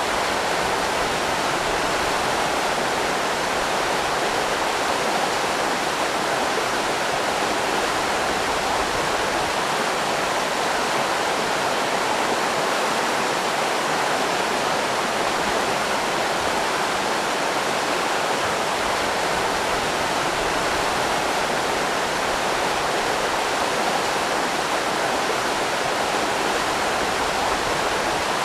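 River rapids rushing steadily, an even, unbroken wash of running water.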